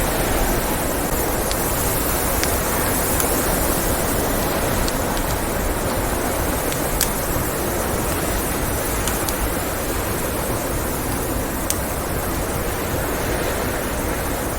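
Steady roar of blizzard wind, with sparse sharp pops and crackles from a wood fire in a fireplace scattered through it.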